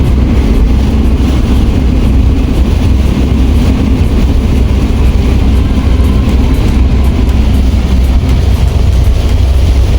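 Loud, steady low rumble of a vehicle in motion, with no distinct events.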